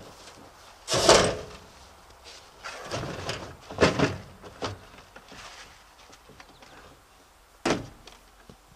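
A handful of irregular knocks and scrapes from something being handled: the loudest about a second in, a cluster around three to four seconds in, and a sharp knock near the end.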